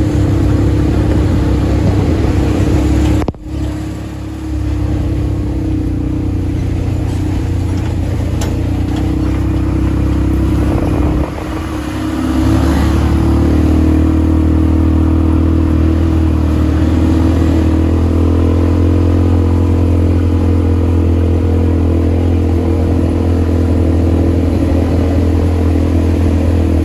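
All-terrain vehicle (ATV) engine running steadily under way. Its sound drops sharply for a moment about three seconds in and dips again around eleven seconds, then runs steady and slightly louder.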